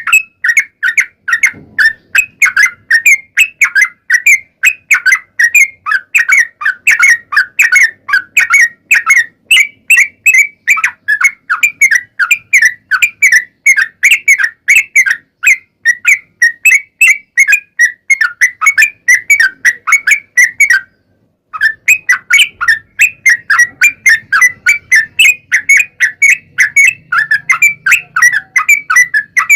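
Sooty-headed bulbul (trucuk) singing its long rapid song: a fast, almost unbroken run of short notes, about three a second, with one brief pause about three-quarters of the way through.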